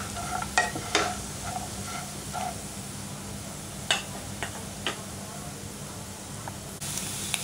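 Rice string hoppers (idiyappam) with cashews frying gently in ghee in a non-stick pan, a steady quiet sizzle, with a few light scrapes and taps of a wooden spatula near the start and again about four seconds in.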